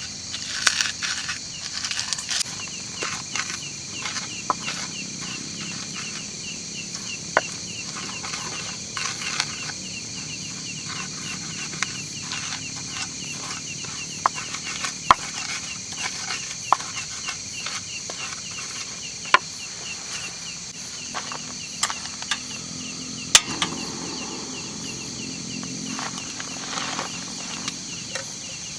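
Night insect chorus: a steady high buzzing with a fast, even chirping trill running through it, with scattered sharp ticks and taps on top.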